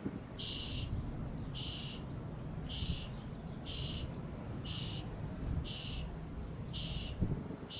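Wind rumbling on the microphone, with a short high buzzy call repeating very evenly about once a second, about eight times.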